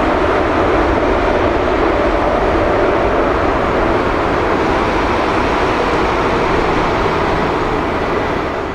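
Jet engine noise of a Boeing 777-300ER's GE90 turbofans: a loud, steady roar.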